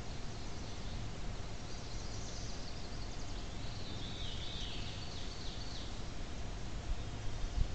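Steady hiss with a faint hum from an outdoor game camera's microphone, with high-pitched chirping trills from small birds twice: briefly about two seconds in, then for about a second and a half around the middle. A couple of low thumps sound near the end.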